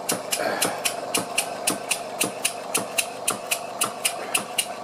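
Stuart model beam engine running steadily, its piston sealed with a single Viton O-ring, with a regular clunk about four times a second. The clunk is a knock somewhere in the engine that the owner has yet to trace.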